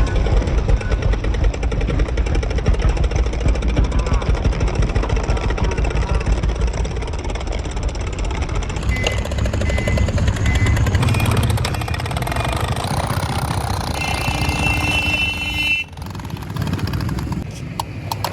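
Diesel tractor engine running with a rapid, even knock. The sound changes abruptly about halfway through and again near the end.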